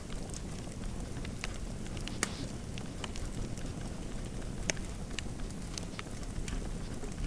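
Fireplace fire crackling: irregular sharp pops and snaps over a steady low rumble, with two louder pops about two and a quarter and four and three-quarter seconds in.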